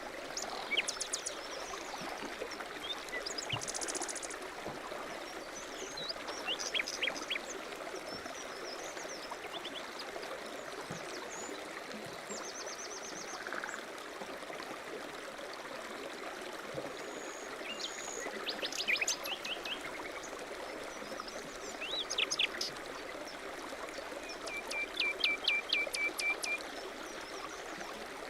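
A stream running steadily, with small birds chirping over it in short series of quick notes and trills, several times.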